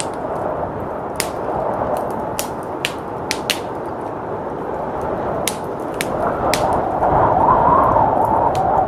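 Wood fire crackling, with sharp pops every second or so, over a steady rush of blizzard wind. The wind swells into a louder gust over the last couple of seconds.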